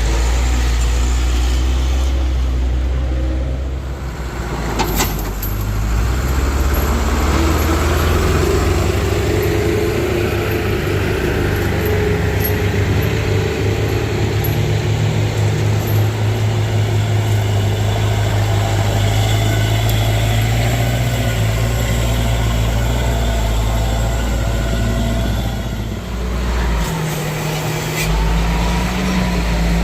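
Heavy vehicle's diesel engine running steadily with a deep hum, dipping briefly about four seconds in and changing pitch near the end.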